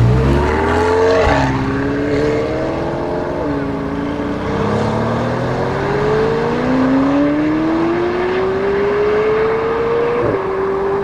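McLaren 720S twin-turbo V8 with a Capristo exhaust accelerating hard through the gears. Its pitch climbs and drops back at each upshift, the last upshift coming near the end after a long pull.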